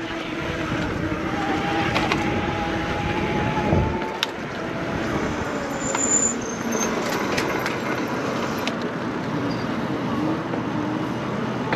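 Riding noise from a Lectric electric bike on the move: tyres rolling and air rushing over the microphone, with a steady whine in the first few seconds.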